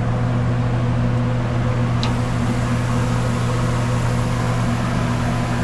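A steady low mechanical hum with a constant hiss behind it, like a motor or engine running without change.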